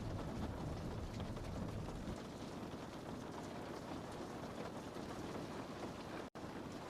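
Steady rain on a window pane: an even hiss with faint drop taps. A low rumble underneath eases about two seconds in, and the sound cuts out for an instant near the end.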